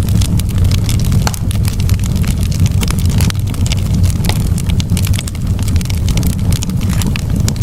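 Campfire burning, the wood crackling and popping irregularly over a steady low rumble.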